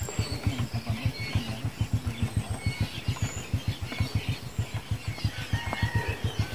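Small motorcycle engine running at low revs, an even beat of about eight pulses a second. Birds chirp and whistle faintly over it.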